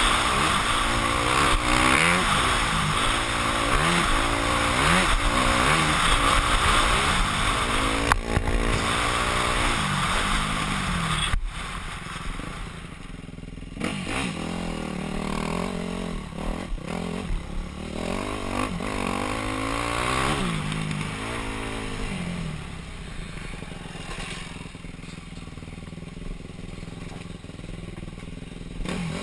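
Yamaha YZ250F four-stroke single-cylinder dirt bike engine revving up and down, picked up by a helmet camera with wind rushing on the mic. About eleven seconds in the wind noise drops away suddenly, and the engine keeps rising and falling in shorter, quieter surges.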